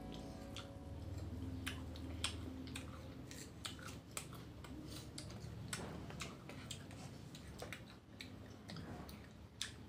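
Crunching and chewing of crisp raw guava: a string of irregular sharp crunches from bites and chewing.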